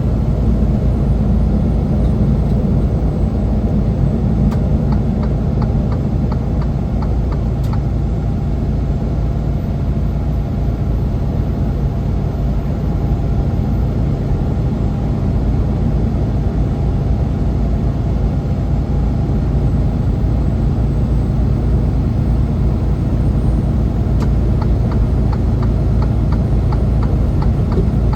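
Steady low drone of a semi truck's engine and road noise while climbing a mountain grade.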